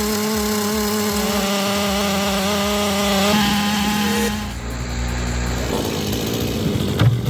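An engine running at a steady high pitch. About four seconds in it gives way to a lower, rougher engine rumble, with a sharp knock near the end.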